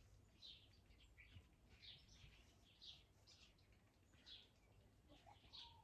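Faint bird chirps, short high calls repeated about once a second.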